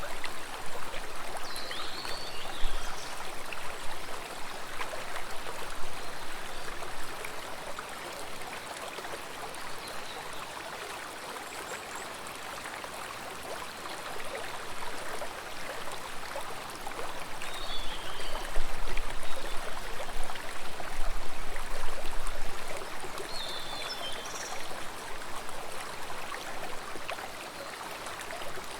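Stream water flowing and trickling in a steady rush that swells louder for a few seconds past the middle, with a few short high chirps now and then.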